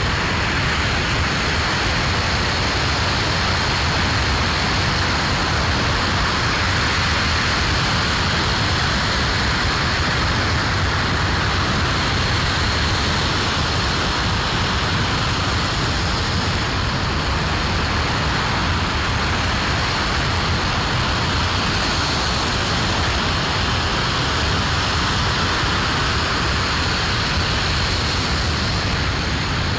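RS-25 liquid-hydrogen and liquid-oxygen rocket engine firing on the test stand: a steady, unbroken roar with a thin high tone held over it.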